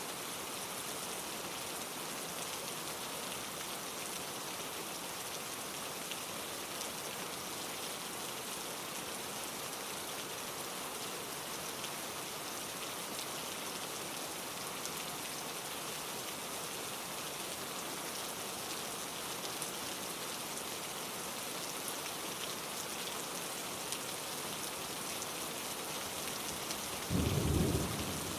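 Steady rain falling on leaves, an even hiss of many drops. Near the end a brief, louder low rumble lasts about a second.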